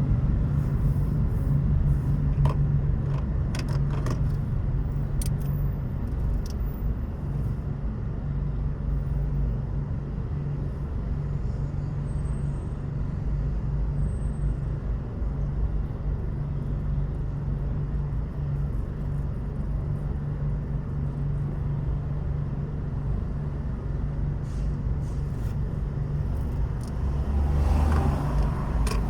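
A car driving, with a steady low engine and road rumble. A few faint clicks come in the first several seconds and again near the end, where the rumble grows a little louder.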